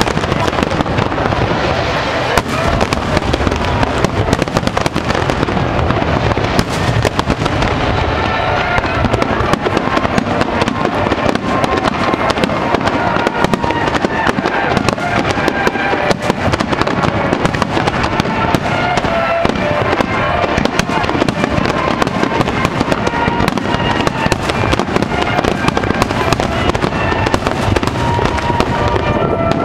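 Fireworks finale barrage: aerial shells bursting close by in a dense, unbroken run of bangs, many each second.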